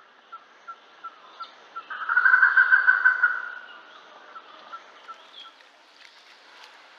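Bird calls: a short high chirp repeated about three times a second, with a much louder call lasting about a second and a half about two seconds in.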